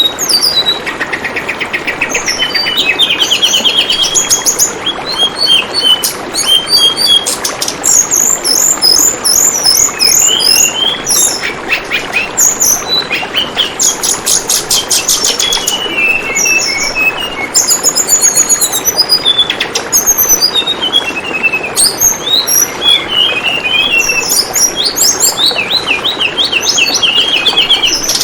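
Tledekan bambu songbird calling almost without pause in quick chirps and fast buzzy trills, over the steady babble of flowing water.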